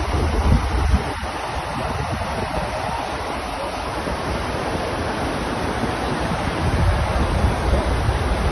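Steady rushing noise of hurricane wind and water, with low wind buffeting on the microphone about a second in and again near the end.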